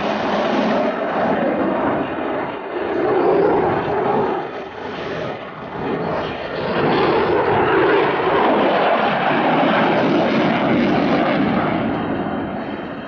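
Eurofighter Typhoon FGR4's twin EJ200 turbofan engines during a display flight: loud rushing jet noise that swells and dips several times as the jet manoeuvres, easing off near the end.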